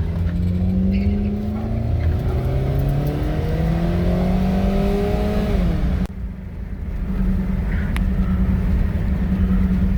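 Derelict Dodge's engine revving up steadily under acceleration in low gear for about five seconds, then dropping off sharply. After a short dip it runs again at a steady pitch.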